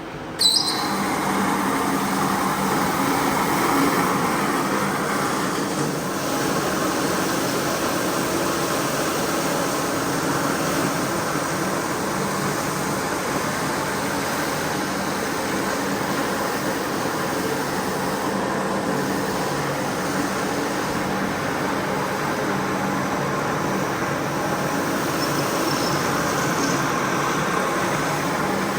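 Carpet-cleaning machine switching on with a click about half a second in, then running steadily.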